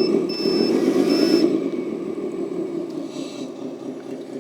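RC scale truck's electric drive motor and all-steel gearbox, transfer case and axle gears whirring steadily as the wheels spin freely off the ground. Three short high beeps sound in the first second and a half, after which the whirr eases and gets quieter.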